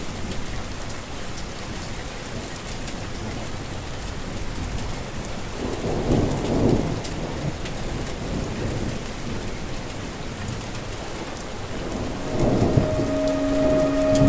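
Steady heavy rain with two rolls of thunder, one about halfway through and one near the end. A steady humming tone starts just before the end.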